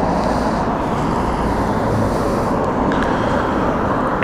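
Steady riding noise of a CSC City Slicker electric motorcycle on the move: an even rush of road and wind noise with no engine note.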